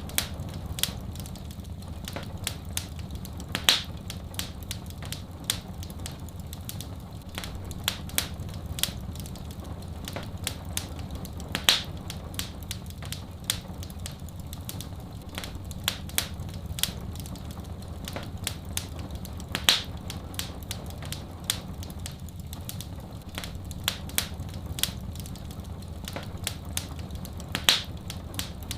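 Wood fire in a fireplace crackling with many small snaps and a louder pop about every eight seconds, over a steady low rushing of soft rain.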